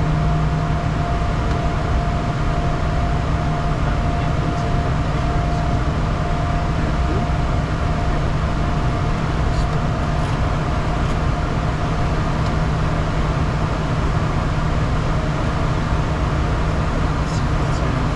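Steady in-flight noise of a Bombardier Challenger 350's twin Honeywell HTF7350 turbofans and airflow: an even rush with a low hum and a steady whine that fades out about halfway through.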